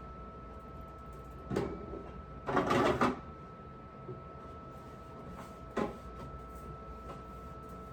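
Refrigerator parts being handled during cleaning: a knock, then a short sliding scrape about two and a half seconds in, and a sharp click near six seconds, over a steady faint hum.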